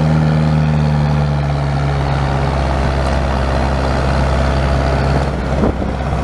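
A vehicle engine running at a steady pitch, a loud low hum with clear overtones that eases slightly near the end.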